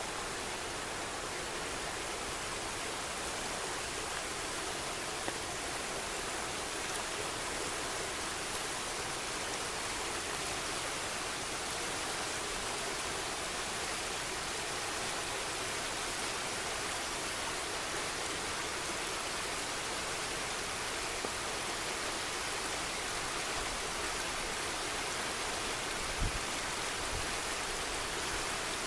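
The Little Manistee River flowing, a steady even rushing of moving water, with a brief low bump near the end.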